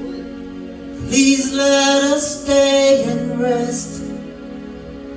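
Praise and worship song: a woman singing long held notes over instrumental accompaniment.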